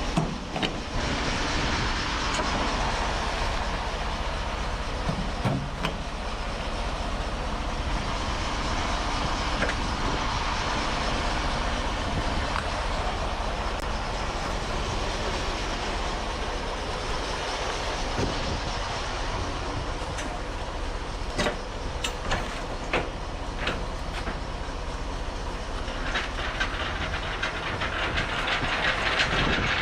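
Semi-truck under way: steady engine and road noise with scattered short rattles and clicks.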